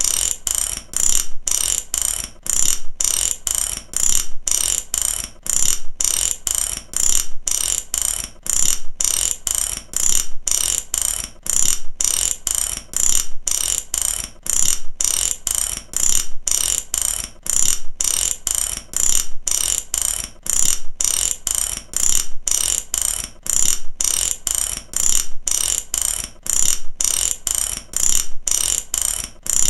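Mechanical ratchet clicking in short, evenly spaced bursts, about two a second, with a bright metallic rasp that keeps the same rhythm throughout.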